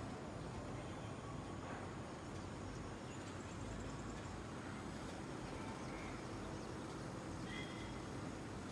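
Steady low outdoor background noise, with a few faint, brief chirps like distant birds.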